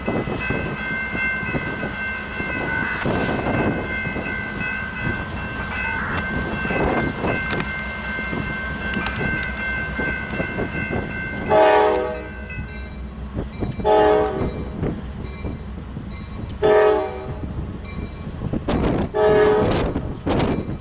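A CSX diesel freight locomotive and its train rolling through a curve with a steady high squeal, then sounding its air horn in four blasts, the first the longest, starting about halfway through.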